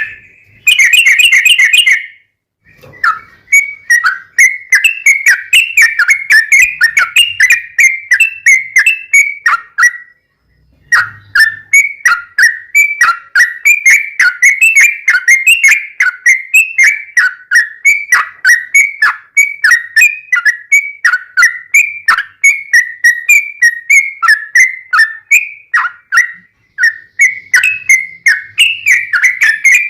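Yellow-vented bulbul (trucuk) singing a long, rapid run of chattering, whistled notes, with short breaks about two seconds in and about ten seconds in.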